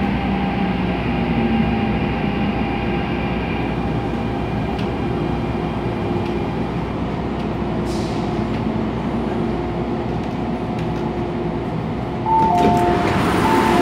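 MTR Tung Chung Line A-Train electric multiple unit running, steady rumble with a few humming motor tones. The sound grows suddenly louder with new tones about twelve seconds in.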